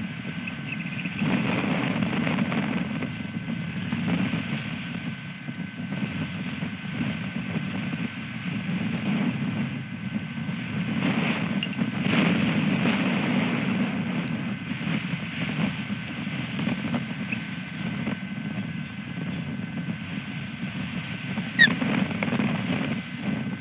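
Wind gusting over an outdoor nest-camera microphone, with a thin steady electronic whine under it. A few faint high chirps come through, and near the end there is one short, sharp, loud osprey chirp.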